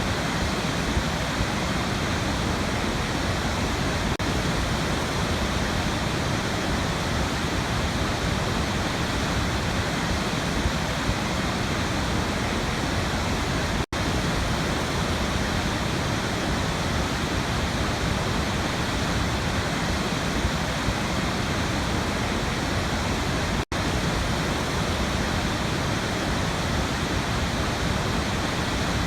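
Waterfall rushing steadily, a dense even roar of falling water. It cuts out for an instant twice.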